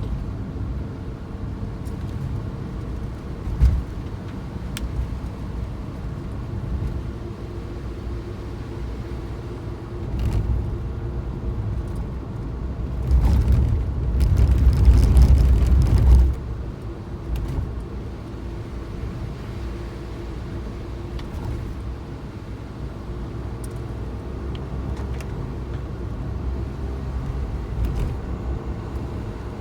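A Suzuki Jimny driving, its engine and road rumble running steadily, with a louder swell about halfway through.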